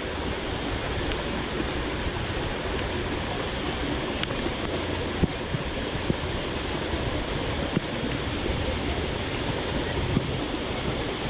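Steady rush of water from a waterfall and its stream, with a few faint clicks in the middle.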